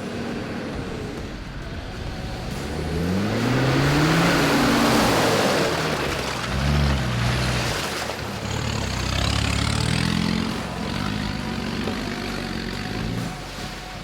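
Off-road 4x4 engine revving up and easing off several times, the biggest rise about four seconds in, with a loud rush of noise at the same moment.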